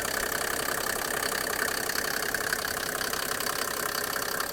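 Mercedes OM603 inline-six turbo-diesel with a mechanical injection pump, idling steadily with diesel clatter, heard with the hood open.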